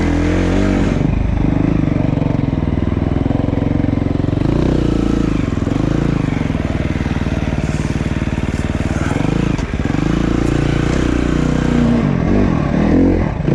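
Dirt bike engine running under way, its pitch rising and falling as the throttle opens and closes, with a brief drop about two-thirds of the way through.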